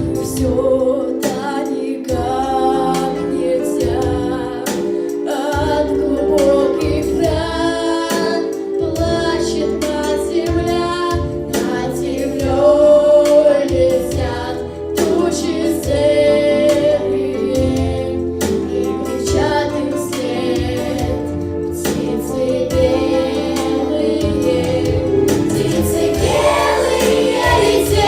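A song sung by several voices over a sustained instrumental accompaniment, the melody moving note to note.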